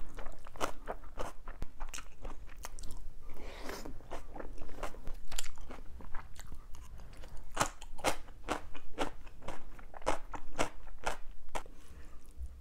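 Close-miked eating sounds: chewing with many quick, crisp crunches, including yellow pickled radish (danmuji) bitten and chewed partway through.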